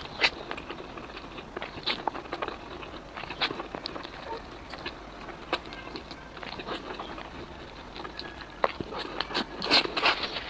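Wet chewing and slurping of saucy wide noodles, with irregular mouth smacks and clicks that grow busier and louder near the end.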